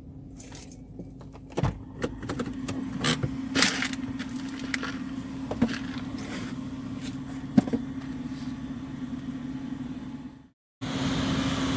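A steady low hum, with scattered clicks and rustles; it drops out briefly near the end.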